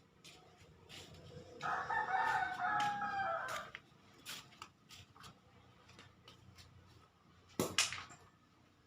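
A rooster crows once, for about two seconds, starting a second and a half in. A sharp knock comes near the end, with faint scattered clicks around it.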